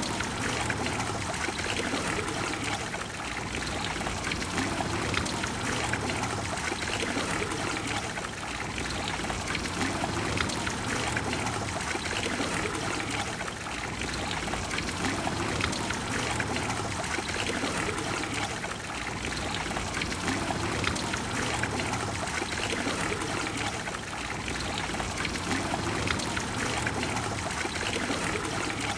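Water of the Trevi Fountain pouring and splashing steadily.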